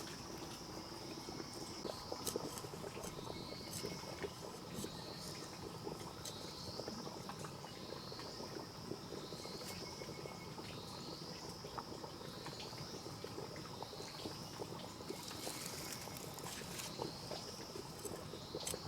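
Insects droning steadily at a high pitch, with a high rising chirp repeated about once a second and faint scattered taps and rustling.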